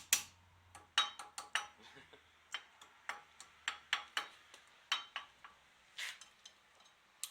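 A hammer striking metal in a run of irregular, ringing taps, often about two a second, while a part is knocked out of a pickup's front hub assembly.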